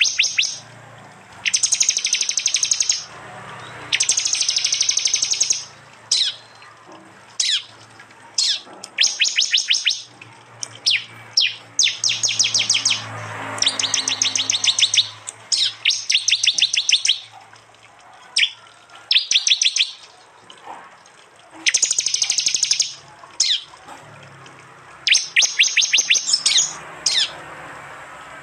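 Prinia (prenjak) 'tembakan' calls: loud, repeated bursts, each a rapid run of sharp notes lasting up to about a second and a half, with short pauses between.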